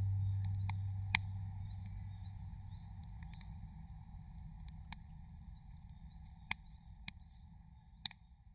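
Campfire crackling: a handful of sharp pops from burning firewood, about one every second or two, over faint high chirping and a low hum, all fading out.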